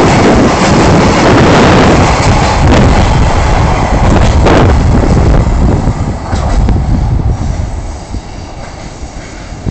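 A freight train's empty container flatcars rolling past at close range, wheels running loud over the rails. The noise falls away from about six seconds in as the end of the train pulls off into the distance.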